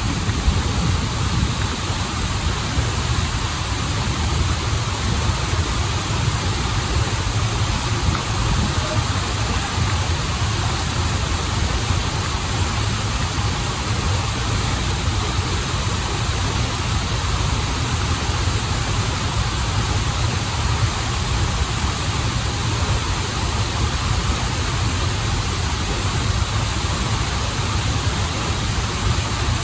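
Stream and waterfall water rushing steadily, a continuous hiss over a deep low rumble.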